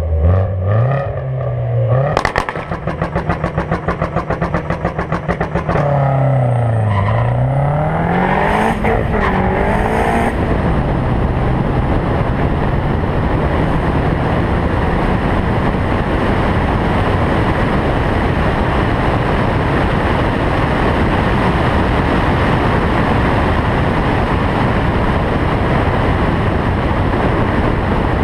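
Turbocharged Audi A4 1.8T engine revving: its pitch dips and climbs again with a high whine rising over it. From about ten seconds in, steady loud wind and road noise covers it.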